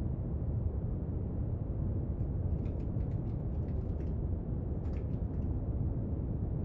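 Steady brown noise, a deep even hiss, with a few faint small clicks and taps from desk work in the middle.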